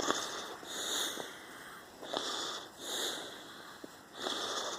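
A man breathing hard close to the microphone, in and out about once a second, with a few faint clicks of handling.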